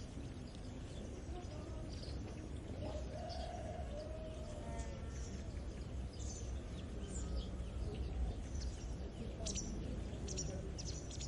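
Early-morning countryside ambience: many small birds chirping and twittering in short high calls throughout, over a steady low rumble. A few lower, drawn-out calls come about three to five seconds in.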